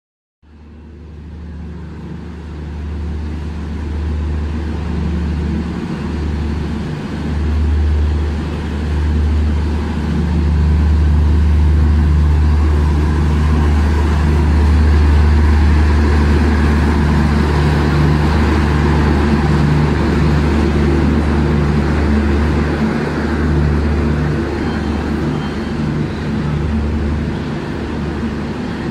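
Indian Railways LHB AC express coaches rolling slowly past a station platform: a loud, steady low hum with a continuous rumble of the moving train, fading in over the first second or two.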